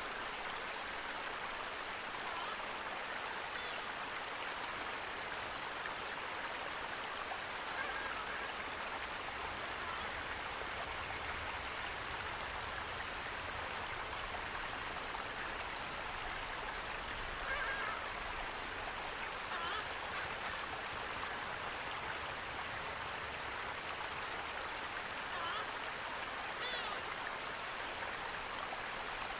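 Steady rush of flowing water, with short bird calls breaking through several times.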